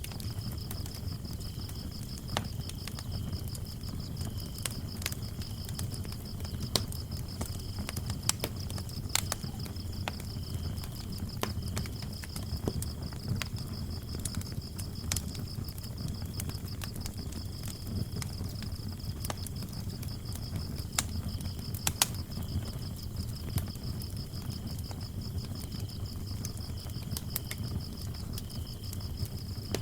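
Wood fire crackling, with scattered sharp pops over a low rumble of flames, under the steady trill of crickets: one high, continuous pulsing chirp and a lower one that comes and goes.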